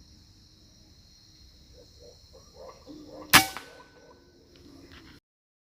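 A single sharp gunshot about three and a half seconds in, with a brief ringing tail, over a steady high chirring of insects; the sound cuts off abruptly near the end.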